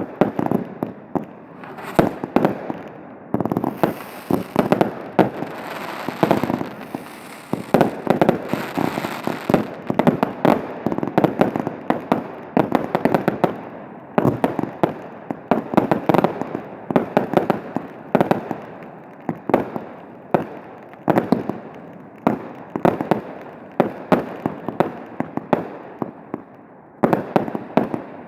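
Aerial fireworks display: a dense run of shell bursts and bangs, volley after volley every second or two, with crackling and hissing between the reports.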